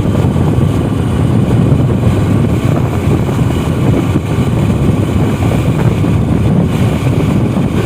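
Loud, steady wind buffeting the microphone while riding a motorbike, with the bike's engine and road noise underneath.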